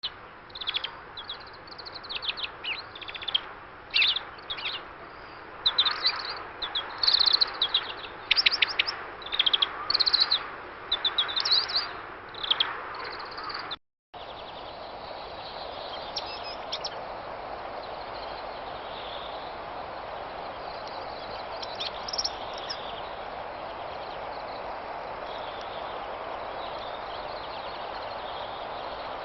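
Wild songbird singing a rapid run of short, high chirps and trills in the first half. After a brief dropout about halfway, a steady background hiss follows, with only a few faint calls.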